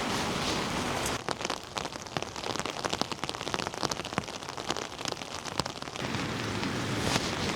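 Heavy rain falling in a steady hiss. From about a second in until near the end, the hiss drops back and many separate drops tap close by in quick, uneven succession.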